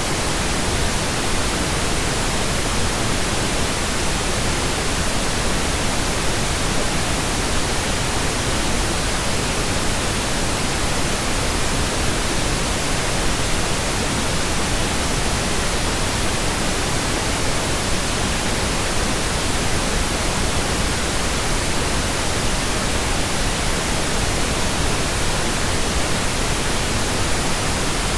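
Computer-generated pink noise: a steady, even hiss with no change.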